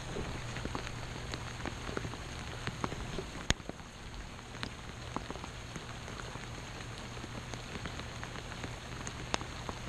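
Steady rain falling around the microphone, with many separate drops ticking sharply. One tick about three and a half seconds in is louder than the rest.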